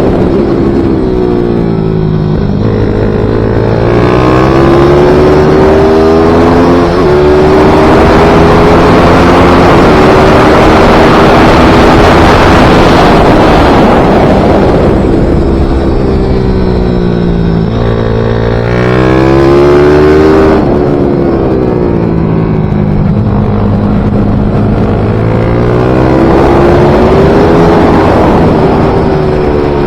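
Small pit bike racing engine at full race pace, its pitch repeatedly climbing under acceleration and dropping off for the corners, with a brief break around seven seconds in at a gear change.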